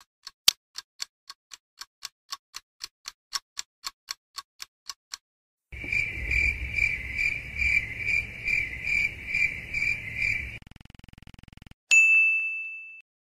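A string of separate editing sound effects: a run of sharp clock-like ticks, about three a second, for about five seconds. Then a high warbling tone pulsing about twice a second over a low rumble, and finally a single bright ding that rings out for about a second.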